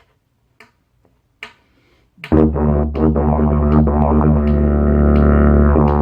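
A few short clicks, then about two seconds in a yidaki (didgeridoo) starts a loud, low steady drone. Its overtones shift and sharp rhythmic accents mark it, playing a rhythm pattern.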